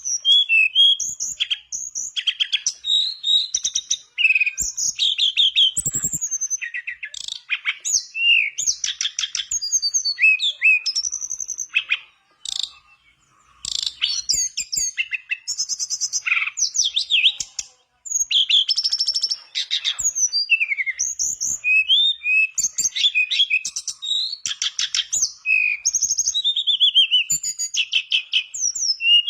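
Tledekan bakau (mangrove blue flycatcher) singing a continuous, varied song of high whistled slurs and fast trills, pausing briefly about twelve seconds in.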